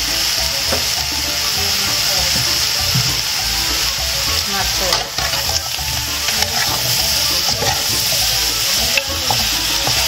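Crabs and vegetables sizzling steadily in oil in a wide metal pan, stirred with a large metal spoon that scrapes and clicks against the pan now and then.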